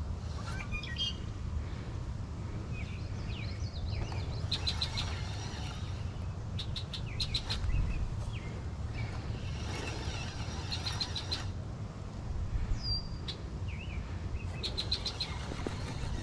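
Several songbirds singing and chirping: repeated quick runs of high notes and short chirps, over a steady low rumble.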